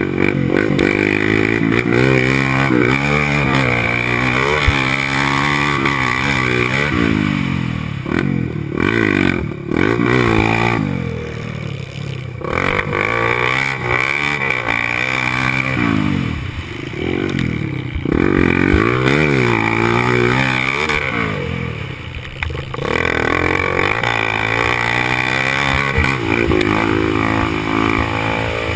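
Honda XR250 Tornado's single-cylinder four-stroke engine, heard close from a camera on the bike, revving up and down over and over as the rider accelerates, shifts and rolls off the throttle on a dirt track, with a few brief throttle-offs.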